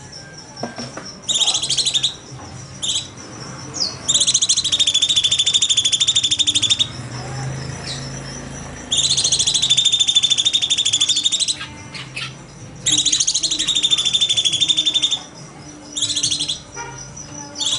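A cucak cungkok songbird singing in long, rapid, buzzy trills, each lasting two to three seconds and repeated about four times, with short scattered notes in the gaps between them.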